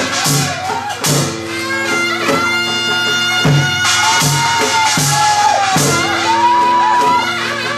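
Korean traditional folk music accompanying a deotbaegi dance: a drum struck about every 0.8 s under a bright metallic shimmer, with a held, wavering wind-instrument melody over steady drone tones.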